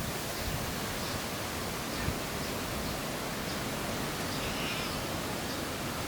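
Steady rushing outdoor noise of wind, with a faint short high-pitched call about four and a half seconds in.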